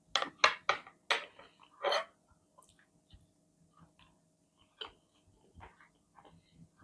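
Close-miked chewing of crunchy food: four or five loud, crisp crunches in the first two seconds, then quieter chewing and small mouth clicks.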